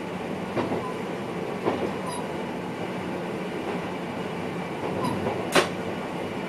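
Steady running noise of an NS VIRM double-deck electric train, heard inside the driver's cab, with a few sharp knocks from the wheels over the track, the loudest about five and a half seconds in.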